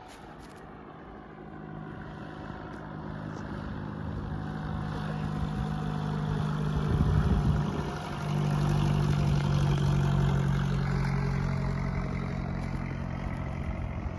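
Aircraft engines growing steadily louder as a plane approaches and passes close by, with a steady low hum and gently sweeping tones higher up.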